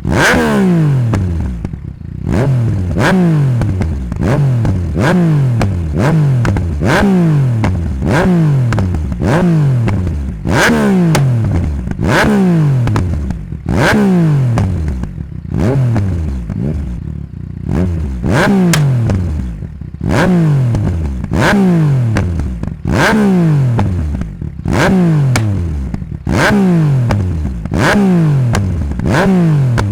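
Yamaha MT-09's 847 cc crossplane three-cylinder engine, through a straight-pipe de-cat exhaust, blipped again and again, about once every second and a half. Each rev drops away, with sharp pops and crackles from the exhaust.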